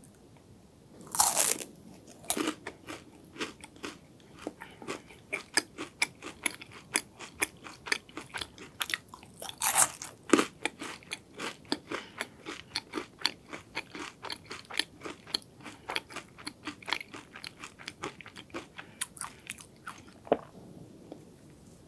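Close-miked crunchy eating of a Ferrero Rocher chocolate, its wafer shell and hazelnuts cracking. There is a loud bite just over a second in, then steady crunching as it is chewed, about two to three crunches a second. Another loud crunch comes about ten seconds in, and the chewing thins out near the end.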